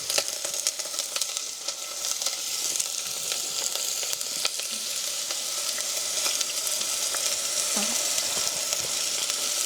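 Food frying in a pan: a steady sizzling hiss with scattered small pops.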